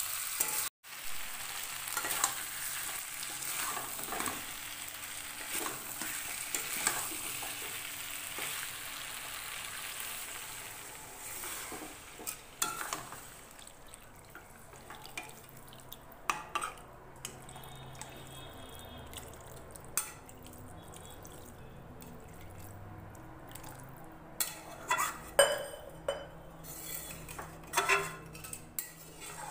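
Chicken pieces frying in masala in a kadai, sizzling while a spatula stirs and scrapes the pan. Partway through, the sizzling dies down as water is added, leaving quieter stirring with occasional scrapes and knocks of the spatula against the pan, a few louder ones near the end.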